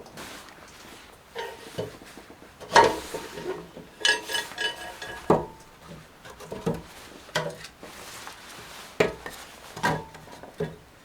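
Metal objects being handled: irregular clinks and knocks, some with a brief metallic ring, like cookware and utensils set down and moved about.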